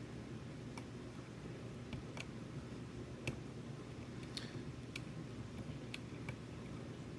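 Light, irregular metallic clicks of a lock pick and tension wrench working inside a Sargent Signature lock cylinder, about seven in all, with one sharper click a little over three seconds in, over a steady low hum.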